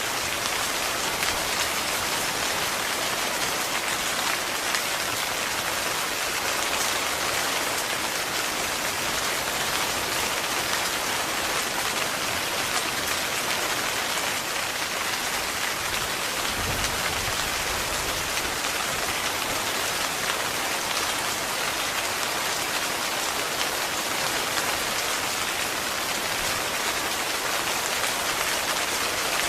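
Heavy rain falling steadily on a tent, a dense even patter with no let-up. A brief low thump or rumble comes a little over halfway through.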